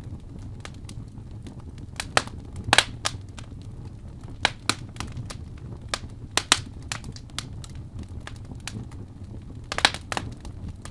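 Fire burning in a fireplace: irregular sharp crackles and pops over a steady low rumble of the flames, with clusters of louder pops about three seconds in and near the end.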